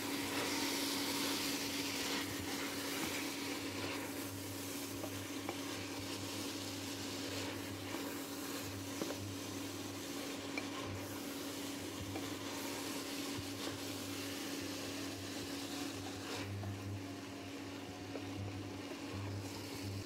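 Dal and spices frying in oil in an open pressure cooker, sizzling steadily while a spatula stirs and scrapes against the pot, over a steady low hum.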